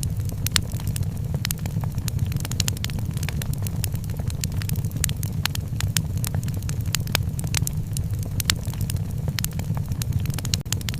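Wood fire crackling in a fireplace: frequent sharp snaps and pops, irregularly spaced, over a steady low rumble.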